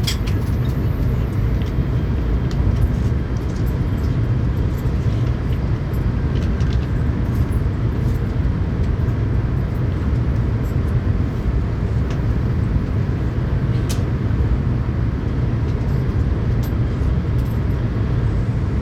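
Tokaido Shinkansen train running at speed, heard from inside the passenger cabin as a steady low rumble, with a few faint clicks.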